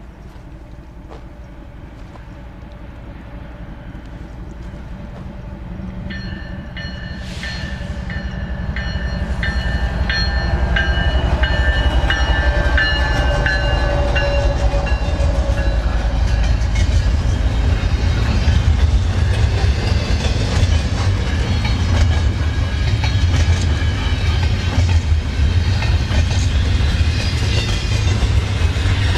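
Freight train approaching and passing: a low rumble grows louder over the first ten seconds, and a train horn sounds for several seconds, dipping slightly in pitch as it goes by. Then comes the steady rumble and rapid clatter of the cars rolling past on the rails.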